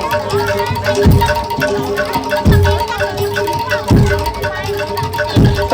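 Live Jaranan Dor gamelan music: gong-chime and metallophone notes held in a steady repeating pattern, over a deep drum beat about every one and a half seconds.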